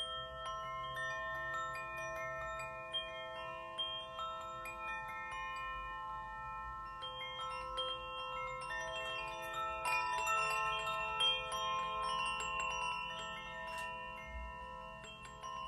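Tuned metal chimes, struck one note after another at different pitches. Each note rings on for several seconds and overlaps the next, with light high tinkling between them.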